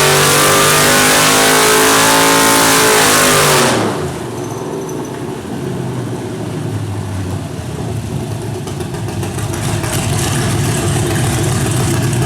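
Chevrolet 6.0L LY6 Gen 4 LS V8 with a stage 2 cam, running loud at full throttle in a dyno pull. About four seconds in the throttle is lifted and it drops to a lower, rougher running that slowly builds again.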